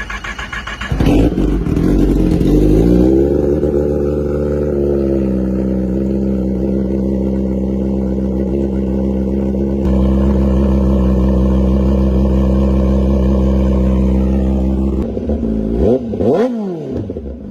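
Kawasaki ZX-10R inline-four with an SC Project exhaust starting up about a second in and revving high. The revs then fall and settle into a steady idle. Near the end the pitch rises and falls quickly, as with a couple of throttle blips.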